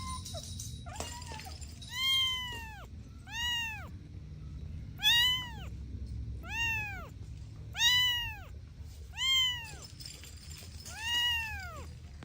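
A kitten meowing over and over: seven high meows, each rising and then falling in pitch, about one every one and a half seconds.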